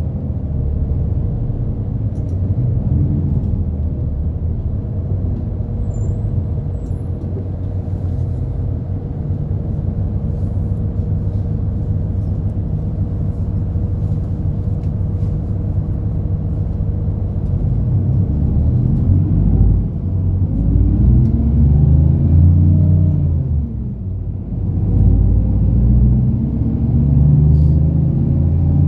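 Route bus engine and road rumble heard from inside the cabin. The bus cruises steadily at first, then from a little past halfway the engine revs rise and fall as it pulls away and shifts gear, dipping once before climbing again.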